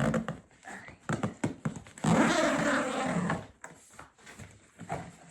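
A woman groaning and huffing with effort: a short strained burst at the start and a longer groan about two seconds in. Between them come clicks and rustles as the folded Oru kayak is forced into its carrying bag.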